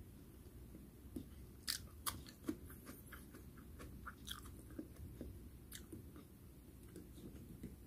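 Faint chewing and mouth sounds of someone eating close to the microphone: soft, irregular clicks and smacks scattered through, with no steady rhythm.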